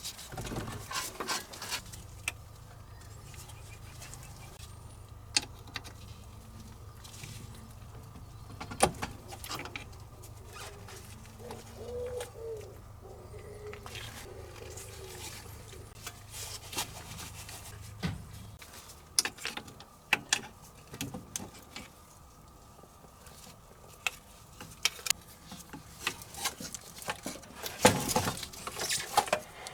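Work under a car being dismantled: scattered knocks and clicks of tools and parts, over a steady low hum that stops about two-thirds of the way through.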